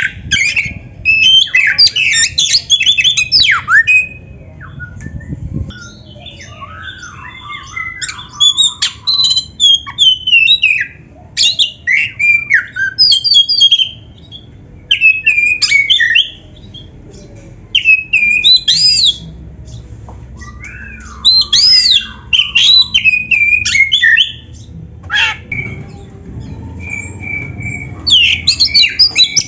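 Oriental magpie-robin singing a varied song of whistles, chirps and quick rising and falling notes, in loud phrases of one to a few seconds with short pauses between them.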